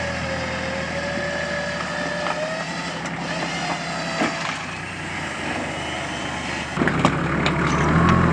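Four-wheel drive's engine running steadily with a wavering whine over it, a few sharp knocks from about four seconds in, and the engine getting louder near the end.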